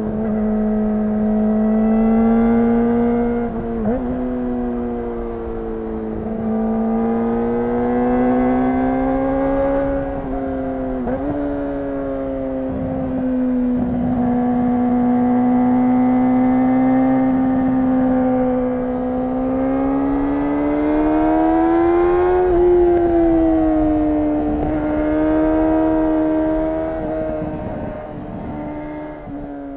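Yamaha R6 inline-four engine through a Leovince aftermarket exhaust, running at high revs. The pitch rises and falls slowly, with brief sharp drops about four and eleven seconds in, and the sound fades out at the end.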